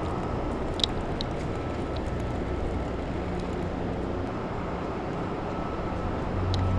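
Steady low rumbling background noise with a faint high tone, and a few faint clicks about a second in and again near the end.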